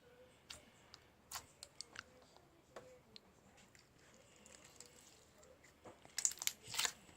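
Scattered small clicks and crinkling, growing into a burst of louder crackling near the end.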